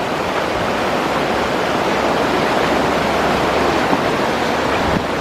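Steady rushing of floodwater from the overflowing Skookumchuck River pouring over a street and around a house.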